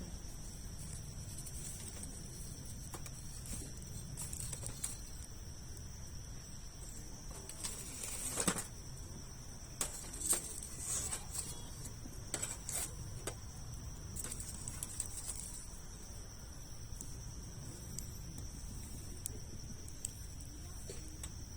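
Campfire of large logs burning, with scattered crackles and pops, the loudest about eight seconds in and a few more between ten and thirteen seconds, over a steady low rumble.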